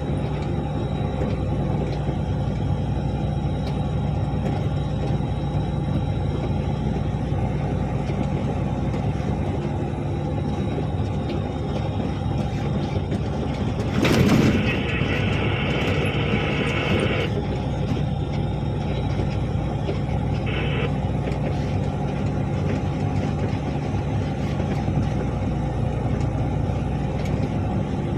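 Articulated dump truck's diesel engine running at a steady drone. About halfway through comes a sudden loud burst, followed by a higher-pitched sound that holds for about three seconds, with a short repeat of it a few seconds later.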